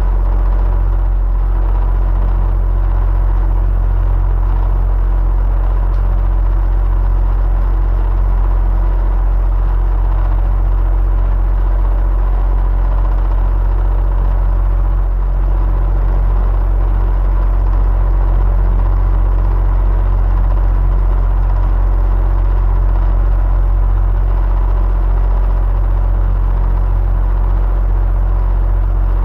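Electric fan running steadily: a constant low hum with a faint higher whine over a soft airy rush.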